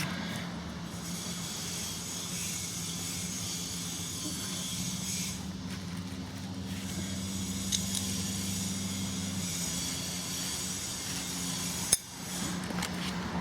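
Scraping and rubbing at intervals as old silicone sealant is cleaned off a pit bike engine's clutch-cover gasket surface, over a steady low hum; a single sharp click near the end.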